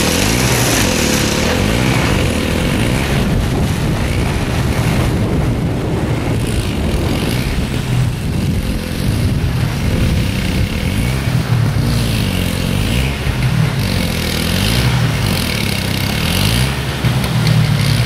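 Engine running steadily, its pitch wavering up and down again and again, with a strong hiss over it.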